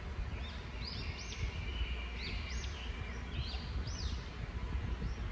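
Birds chirping in the background: many short, high chirps that rise and fall, over a low steady rumble.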